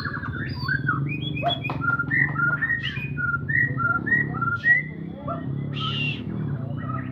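White-rumped shama (murai batu) in full song: a rapid, varied run of short whistled notes that slide up and down, one louder, fuller note about six seconds in, over a low steady hum.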